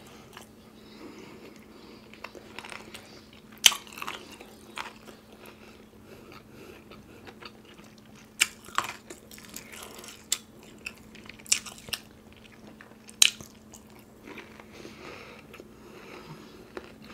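Close-up eating sounds of a person chewing, broken by several sharp crunchy bites spread through the stretch, over a faint steady hum.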